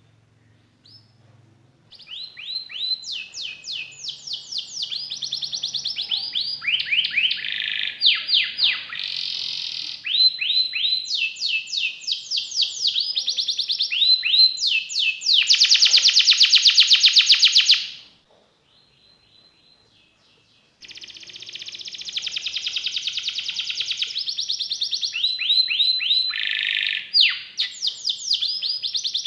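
Domestic canary singing a long song of quickly repeated high notes, changing from one phrase to the next. It starts about two seconds in and includes a loud, fast trill, then breaks off for about three seconds before starting again.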